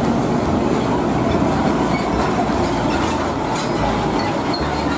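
Water spraying and splashing onto a muddy plastic toy truck as it is washed, a steady, dense rushing noise that starts abruptly.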